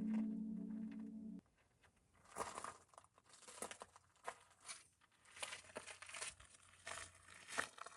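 Background music stops about a second and a half in. Faint, irregular crinkling and rustling noises follow, coming in short uneven bursts.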